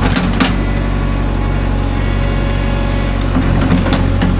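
Diesel engine running steadily at low revs, a deep hum with a continuous low drone. Two sharp clicks come in the first half second.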